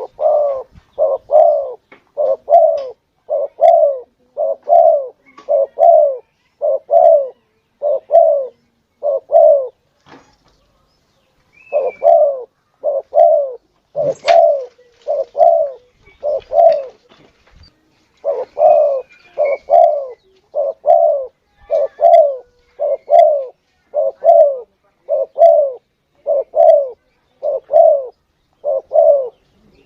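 Spotted dove (tekukur) cooing in a steady run of short coos, about one and a half a second, broken once by a pause of about two seconds a third of the way in. It is a lure call for drawing in wild doves.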